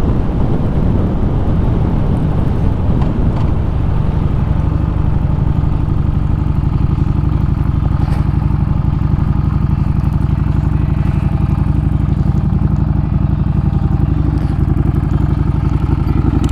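Harley-Davidson Street Rod 750's V-twin engine running on the move. It is uneven for the first few seconds, then settles into a steady, even note as the bike holds a constant speed.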